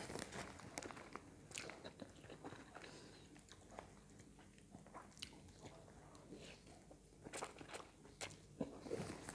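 Faint close-up eating sounds: a person chewing and slurping stir-fried pancit canton noodles, with soft wet mouth clicks scattered throughout and coming closer together near the end.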